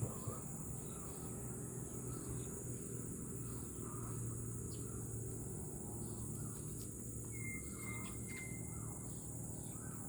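Faint, short bird chirps recurring about once a second, with one thin held whistle about three quarters of the way through. Under them run a steady high insect-like drone and a low hum.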